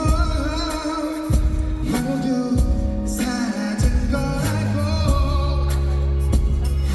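Live pop ballad with a male voice singing over band backing: sustained bass, keyboard chords and steady drum hits, heard through the concert's PA.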